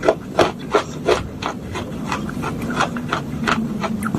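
Spoon scraping and crunching soaked clay pieces in a bowl, in regular strokes about three times a second.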